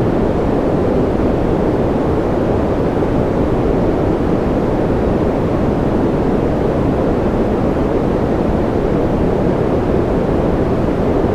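Steady, unchanging noise track for sleep, a deep even rushing hiss with no breaks or events.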